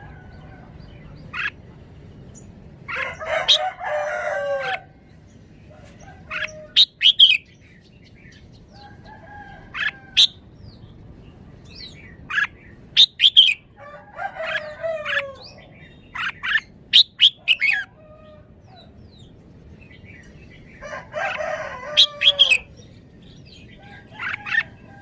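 Red-whiskered bulbul singing: clusters of short, sharp whistled notes every few seconds, with three longer, fuller warbling phrases.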